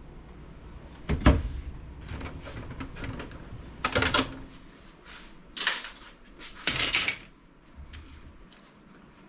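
Handling noises from prying at a desktop PC case: one heavy knock about a second in, then a few sharp clicks and rattles of plastic and metal case parts, the last group near seven seconds.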